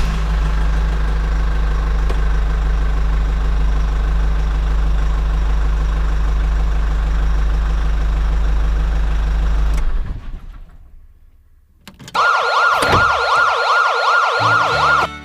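A loud, steady low mechanical hum for about ten seconds that then fades out. After a moment of quiet, a fast-warbling siren sounds for about three seconds and cuts off suddenly.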